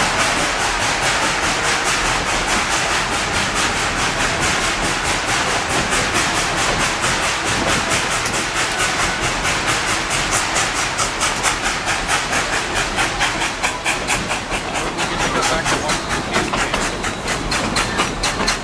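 Narrow-gauge steam train running along the track, with steady steam hiss and wheels clicking in a quick, even rhythm.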